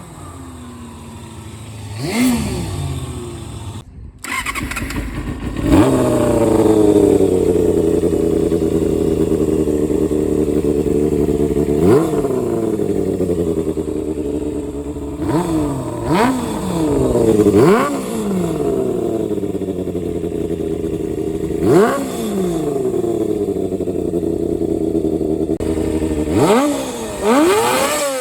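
Kawasaki Balius II's 250 cc four-cylinder engine idling and being blipped with the throttle over and over, each rev sweeping up sharply and falling back to idle. The sound breaks off briefly about four seconds in and then comes back louder.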